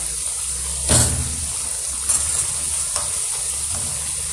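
Cabbage and rice-flour pakoras sizzling in hot oil in a frying pan, a steady hiss. About a second in, a spatula knocks once against the pan, the loudest sound, with a few lighter clicks of the spatula after.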